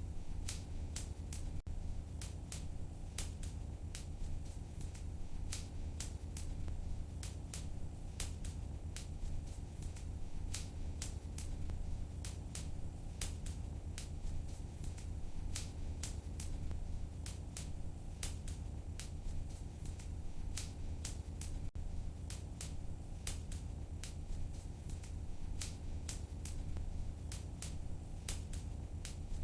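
Wood fire crackling in a fireplace: frequent, irregular sharp pops and snaps over a steady low background.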